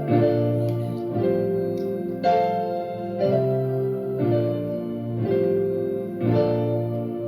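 Piano or electric keyboard playing a slow, steady run of chords, a new chord struck about once a second, as the introduction to a hymn.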